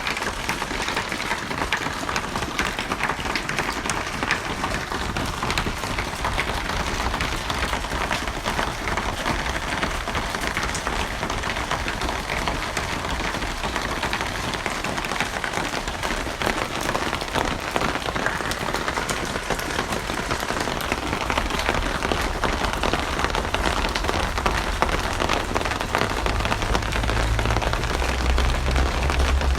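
Steady rain falling, an even hiss with many fine drops pattering. A low rumble comes in near the end.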